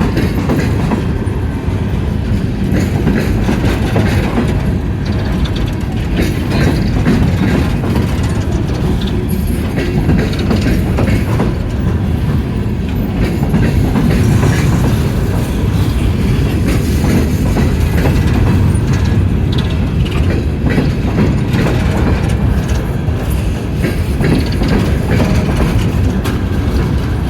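Empty coal train rolling past, a steady low rumble with its wheels clicking and clacking over the rail joints.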